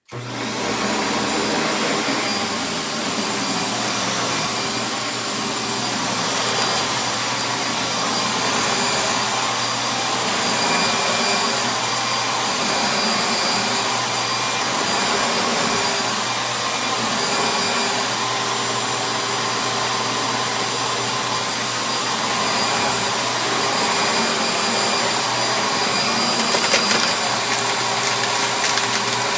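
1995 Panasonic Dirt Finder upright vacuum cleaner (11-amp motor) switched on and spinning up within about a second, then running steadily with a constant motor whine and brush-roll hum.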